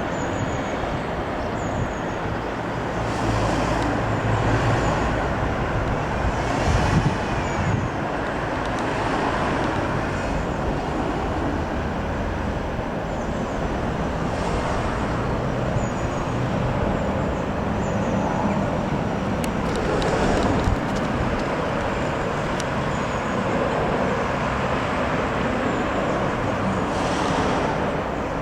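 Steady road traffic noise, a continuous rush of passing vehicles, with a few faint high chirps now and then.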